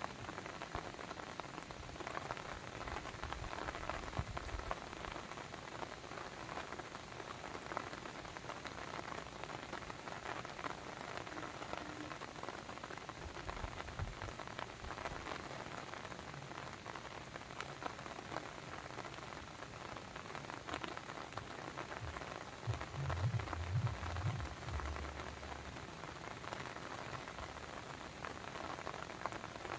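Steady rain pattering, a dense even hiss of many small drop ticks. A short low rumble comes in about three-quarters of the way through.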